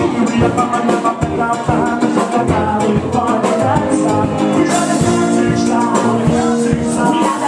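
A live band playing an upbeat tune, with held notes over a steady drum beat.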